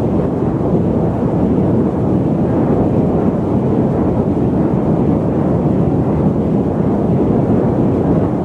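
Loud, steady static noise: an even, deep rush with no tone or rhythm, heavy in the low and middle range, with little hiss on top.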